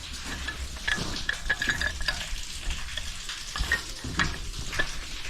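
Scattered light metal clicks and scraping of a hand wrench being fitted to and worked on small threaded steam-pipe fittings.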